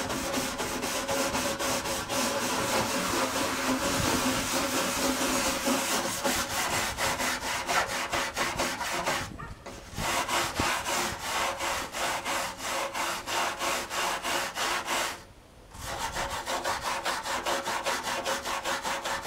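Rapid back-and-forth scrubbing of a stiff brush over the wet plastic case of a Packard Bell Legend 386X computer, working grime off. It pauses briefly twice.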